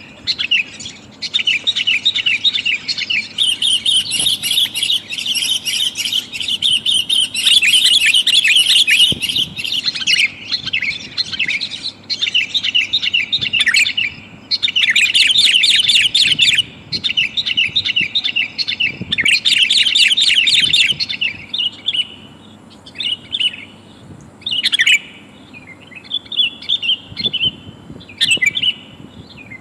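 Sooty-headed bulbul (kutilang) calls, billed as a female calling to males. Rapid, dense chattering phrases run for about the first two-thirds, then thin out to short scattered calls near the end.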